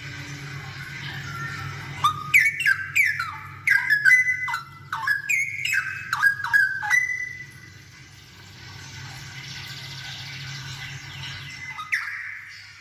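Straw-headed bulbul (cucak rowo) singing a burst of quick, rising and falling phrases for about five seconds, then falling quiet except for one short note near the end. A steady low hum runs underneath.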